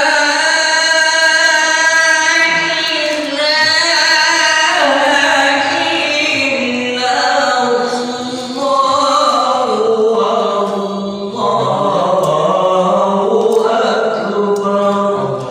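A voice singing long, ornamented held notes that slide and waver up and down in pitch.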